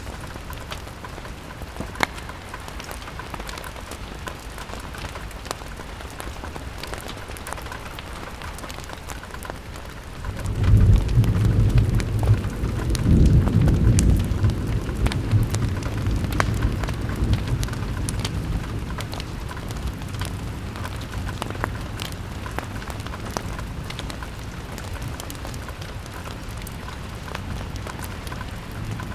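Rain pattering on a window pane with scattered sharp crackles. About ten seconds in, a low roll of thunder swells up, peaks and slowly fades away over the next several seconds.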